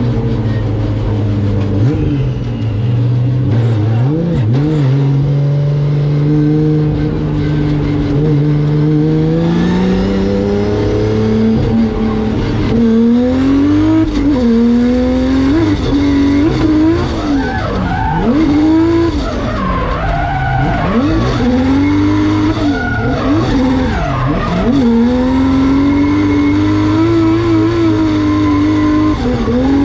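Drift car, a 2JZ-engined Nissan S15, being driven on track. The engine holds a steady note at first, climbs after about ten seconds, and then revs rapidly up and down over and over while the tyres squeal through the drifts.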